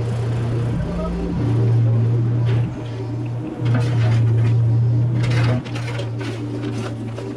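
Mini excavator's diesel engine running with a steady drone. Its pitch rises briefly about a second in and it grows louder twice as the hydraulics take load. A few short knocks and scrapes come about two-thirds of the way through.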